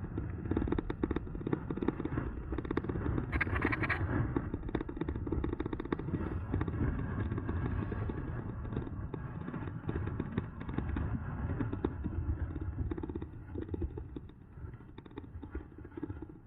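Riding noise from an electric mountain bike: a steady rumble of wind on the microphone and tyres, with the bike rattling over rough ground. It eases off for the last couple of seconds.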